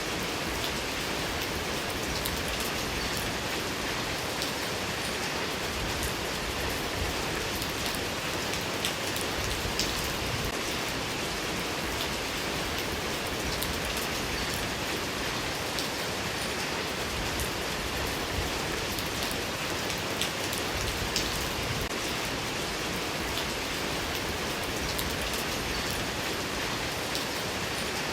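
Steady rain falling, a constant hiss dotted with many sharp ticks of individual drops striking a surface.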